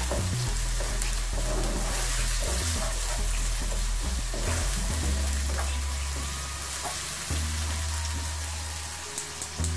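Spring onions, garlic and green chillies sizzling steadily in olive oil in a non-stick wok, stirred with a wooden spatula in the first part.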